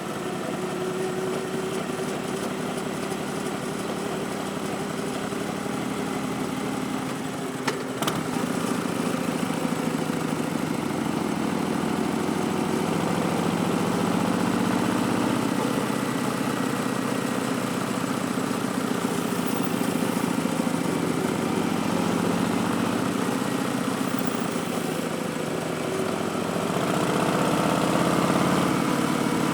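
2019 Harley-Davidson Street Bob's Milwaukee-Eight 107 V-twin running through Vance & Hines Twin Slash slip-on mufflers. The engine pitch slowly rises and falls a few times, a little louder near the end, with a single sharp click about eight seconds in.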